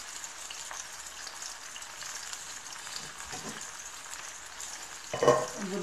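Sliced potatoes and onion frying in oil in a stainless steel skillet, a steady sizzle with light crackling. A voice starts near the end.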